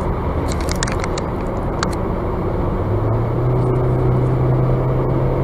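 Steady road and engine noise of a moving vehicle. The engine note rises about three seconds in as it accelerates, and there are a few faint ticks in the first two seconds.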